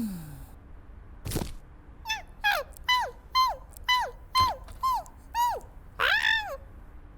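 An animated animal character's short, high yelping cries, about nine in a row, each falling in pitch, roughly two a second, the last one longer. A dull thump comes about a second in.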